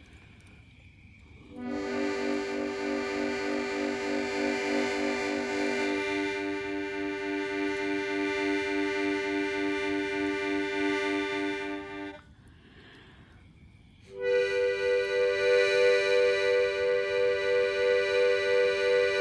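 A free-reed instrument playing long held chords with a pulsing tremolo. The lower notes drop out about six seconds in, and after a short pause a new, brighter chord begins near the end.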